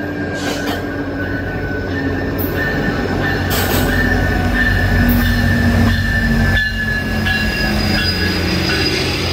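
GO Transit commuter train with an MP40PH diesel locomotive arriving at a station, its steel wheels squealing with a steady high squeal over a low rumble.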